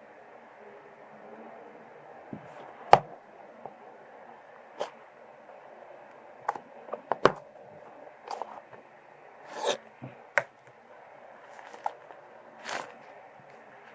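Slime being handled and squeezed: irregular sharp pops and clicks with a few longer squishes, the loudest pop about three seconds in.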